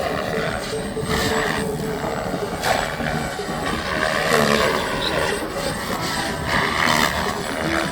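SAB Goblin Raw 580 electric radio-controlled helicopter in flight, on a 6S battery, its rotor and motor sound rising and falling in pitch as it manoeuvres.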